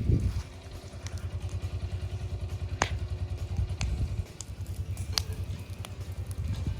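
Mule utility vehicle's engine idling with a steady low putter, while a burning brush pile gives a few sharp pops.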